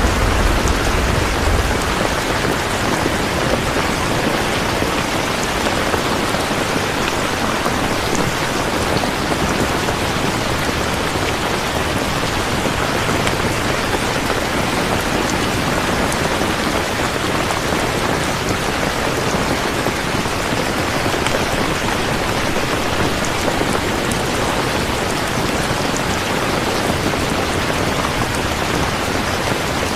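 Steady, even rain falling. A low thunder rumble fades out about two seconds in.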